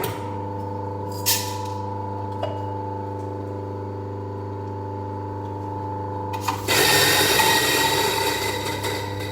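Coffee grinder motor running with a steady electric hum and a sharp click about a second in. About two-thirds of the way through, a louder rough grinding noise joins it, as of beans going through the burrs.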